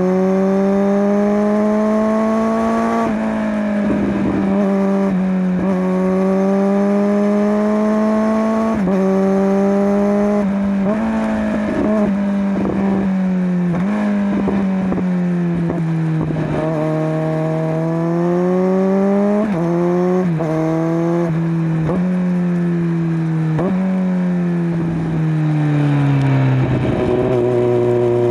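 Kawasaki Z900's inline-four engine through a LeoVince LV10 slip-on exhaust, heard from on board while riding. The revs climb again and again, each rise cut short by a gear change, then fall away near the end to a steady lower note. Wind noise runs underneath.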